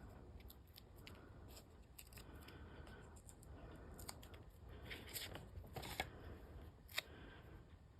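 Faint crafting handling: small clicks and short rustles of foam dimensionals being peeled from their backing sheet and pressed onto cardstock. A single sharp click comes near the end.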